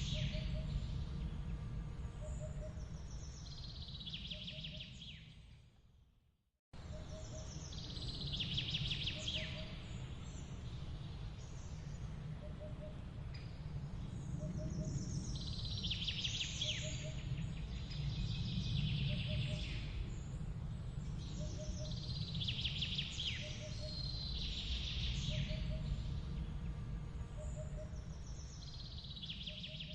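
Birds chirping in repeated bursts over a steady low rumble, with a faint short call repeating about once a second. The sound fades out about five seconds in and comes back abruptly a moment later.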